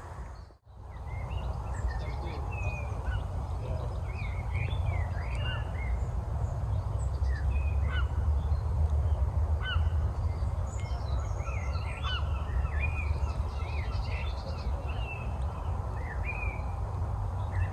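Several songbirds singing and calling at once, many short chirps and whistles overlapping, over a steady low rumble. The sound drops out briefly about half a second in.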